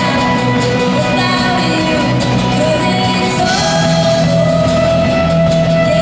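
Live performance of a song: singing over band accompaniment, with a long note held from about the middle onward.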